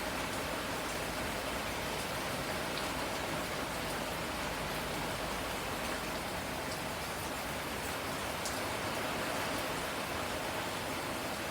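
Steady rain falling, an even hiss with occasional single drops ticking.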